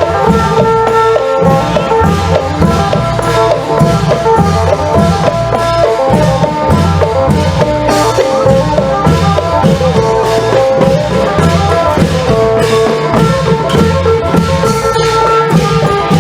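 Isan long-drum (klong yao) ensemble music: a phin lute playing a melody over a steady, driving beat of long drums and sharp percussion strokes.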